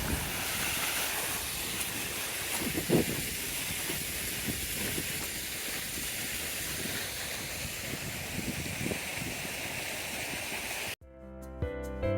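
Steady rushing of river water, with a few faint low knocks; it cuts off suddenly near the end and gentle piano-like music begins.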